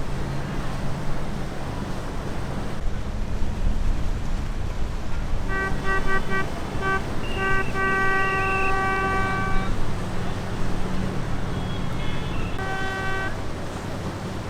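Boat horn sounding: a few short toots about five seconds in, then a long blast of about two seconds, and another short toot near the end, over the steady low rumble of boat engines.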